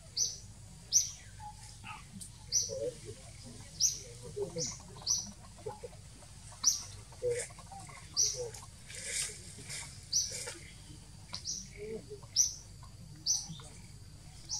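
A bird calling over and over: short, high chirps that drop in pitch, about one a second.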